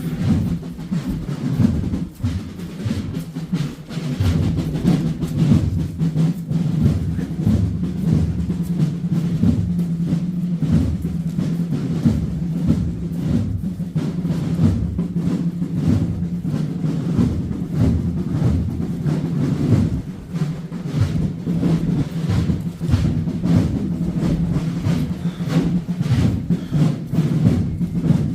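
Procession drums beating a steady, continuous rhythm, heavy and low.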